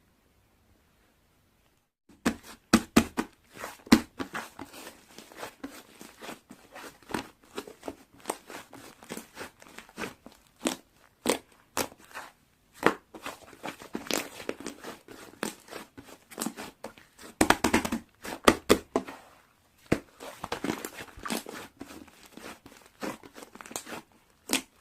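Rapid, irregular crackling and crunching, like something being crumpled or crushed by hand, starting about two seconds in, with a denser flurry near the middle.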